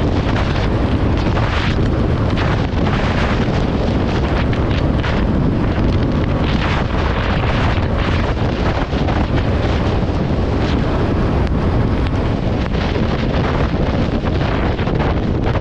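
Strong wind buffeting the microphone in a thunderstorm: a loud, steady rushing with frequent short gusty surges.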